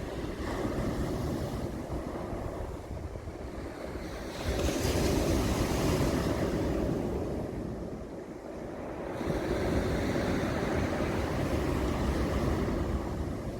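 Sea waves washing up a pebble beach and drawing back, the pebbles rattling in the surf, with two louder surges, about four and nine seconds in. Wind rumbles on the microphone.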